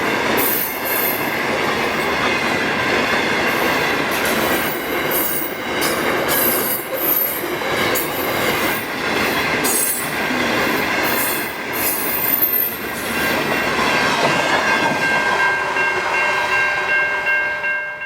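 Freight train wagons rolling past on the rails: a steady heavy rumble with short high-pitched squeals of wheels on track. In the last few seconds a steady high multi-note tone is held, then the sound cuts off abruptly.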